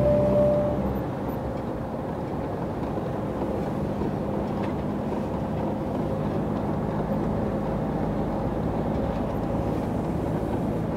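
Truck engine and road noise heard from inside the cab while driving slowly. The engine note is strong at first and eases off about a second in, then settles into a steady low rumble with tyre noise.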